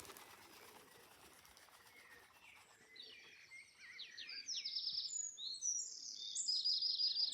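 Small wild songbirds in the dawn chorus, singing rapid high trills and runs of repeated notes. The singing starts faintly about three seconds in and grows louder and busier.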